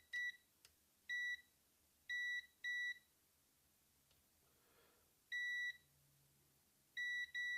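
Multimeter continuity beeper giving about seven short, high beeps at uneven intervals, with a pause in the middle, as the probes are touched across capacitors on the amp's circuit board; each beep signals continuity, a short across that capacitor.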